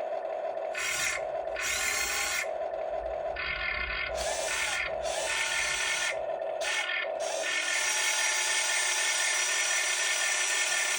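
Huina RC excavator's small electric motors and gearboxes whirring in short stop-start bursts as its controls are worked, then one longer run from about two-thirds of the way in. A steady hum runs underneath.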